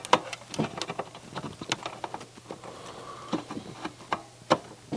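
Irregular small clicks and taps of tools and parts being handled inside an opened CD player, a dozen or so sharp ticks at uneven intervals over a faint steady hum.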